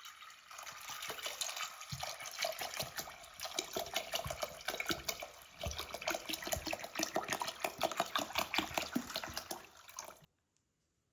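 Water running from a tap and splashing into a kitchen sink, a steady crackling gush that cuts off suddenly about ten seconds in.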